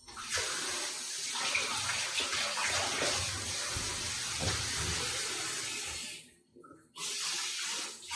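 Running tap water pouring into a bath during a cat's wash, a steady hiss. It stops about six seconds in and comes on again a second later.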